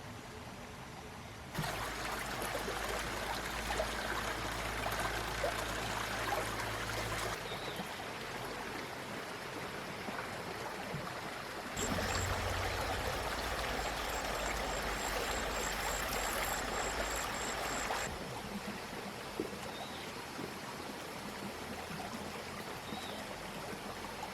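Running water in two spells of about six seconds each that start and stop abruptly, with a low hum under each spell and a fainter flow between them.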